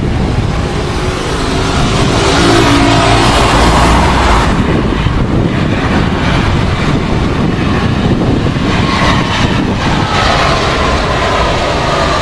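Jet airliner passing close on its approach or landing, a loud steady engine rush with a faint whine that shifts in pitch, under heavy low wind rumble.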